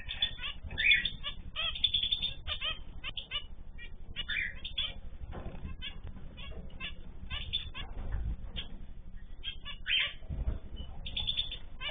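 Many small cage birds chirping and calling over one another in quick, overlapping bursts, with a couple of soft low thumps in the second half.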